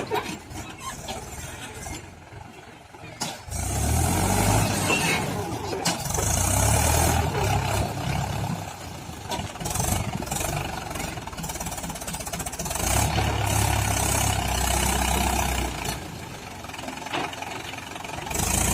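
Mahindra 575 DI tractor's diesel engine running under load while it pulls a loaded trolley. It swells louder and fades again several times, with quieter dips about two seconds in and near the end.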